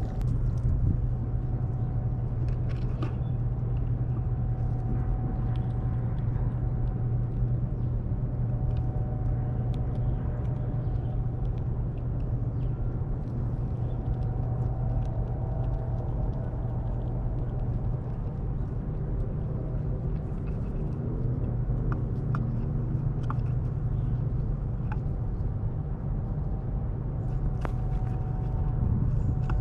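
Steady low motor-like rumble with a constant low hum, and scattered faint ticks over it.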